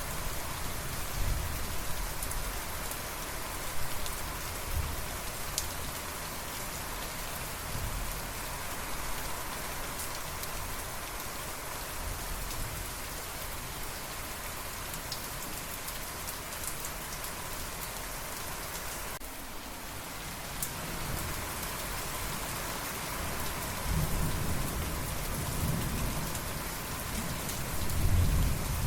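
Steady rain falling, with scattered drop ticks. Thunder rumbles briefly at the start and again, louder, near the end.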